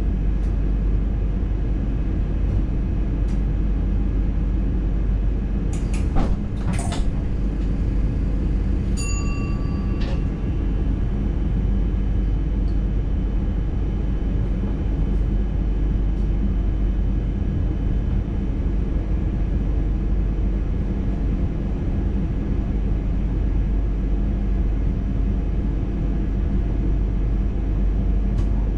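Dutch NS intercity train running along the line: a steady rumble with a constant whine of several tones, a few sharp clicks about six seconds in, and a short beep of about a second near the nine-second mark.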